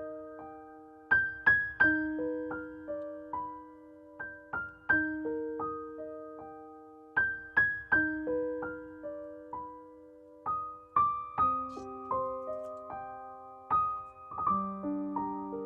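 Background music: a slow, gentle solo piano melody of single struck notes that ring and fade, repeating a short pattern.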